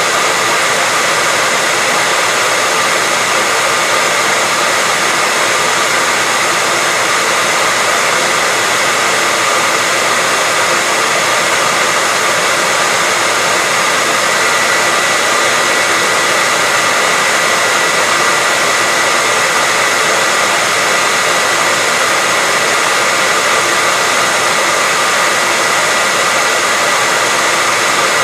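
Hair dryer running steadily: a constant rush of blown air with a thin high whine held on one pitch.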